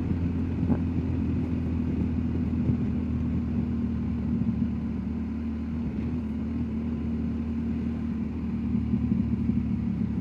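BMW R1250 GSA's boxer-twin engine running steadily at an even road speed, with wind and road noise.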